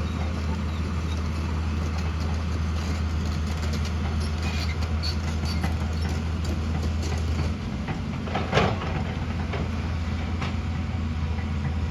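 Diesel engine of heavy earthmoving machinery running steadily. Its low note shifts about seven and a half seconds in, and a brief louder noise comes about a second later.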